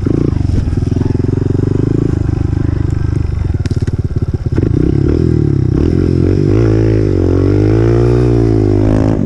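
Honda CRF125F dirt bike's single-cylinder four-stroke engine running at low revs with choppy, uneven pulses, then revving up and down under the throttle over the last few seconds. A few sharp clicks sound about four seconds in.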